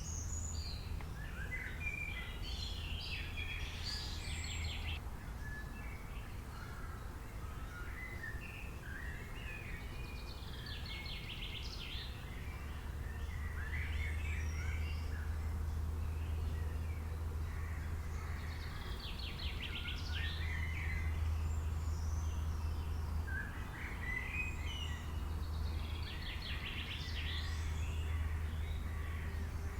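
Several birds calling, with chirps and trilled, buzzy calls in bursts every few seconds over a steady low hum.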